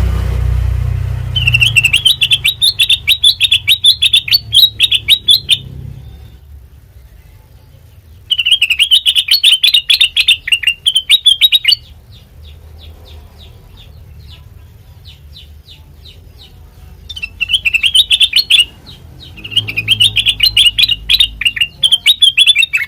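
A kutilang mas, a bulbul, singing in four bursts of fast, chattering, repeated notes, with fainter chatter between the bursts. A low rumble lies underneath, loudest at the very start.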